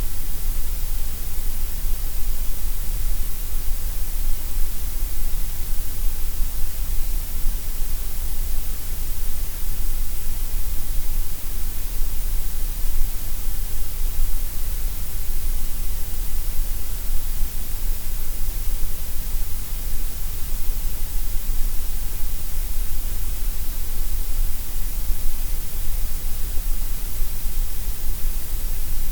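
Steady, unchanging gray noise: an even, loud hiss with a deep rumble underneath, strongest in the lows and highs.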